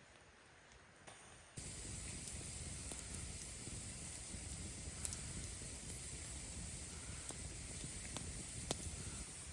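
Campfire crackling: a steady hiss with occasional sharp pops, starting abruptly about a second and a half in.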